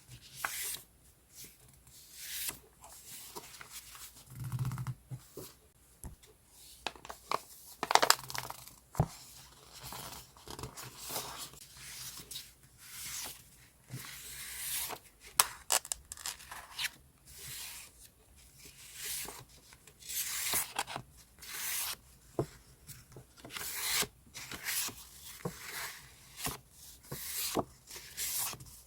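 Sheets of decorative scrapbooking paper being handled: repeated dry rustling and sliding swishes as pages are turned and shuffled, with a few sharper crackles of paper.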